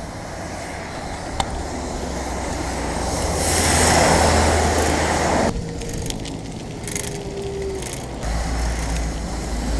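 Outdoor road noise, wind and traffic, heard while cycling: a rushing sound that swells to its loudest about four seconds in and cuts off sharply, then a quieter stretch with a low rumble near the end.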